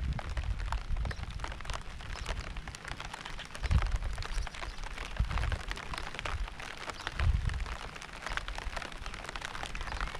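Steady rain falling, with many separate drop ticks over an even hiss. Deep rumbles come and go underneath, loudest about four and seven seconds in.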